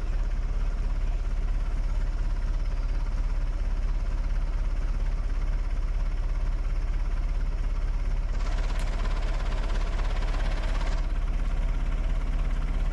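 Backhoe engine idling steadily with a low, even hum. From about eight seconds in, a hiss joins for roughly three seconds.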